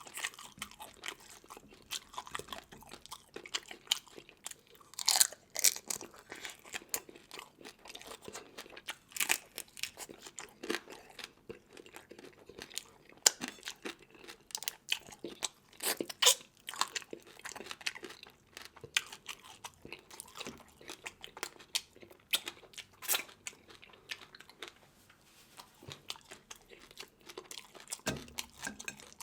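Close-up eating sounds of a seafood meal: steady wet chewing with crunching, and several louder sharp cracks spread through, as of crab shell and fish bone being bitten.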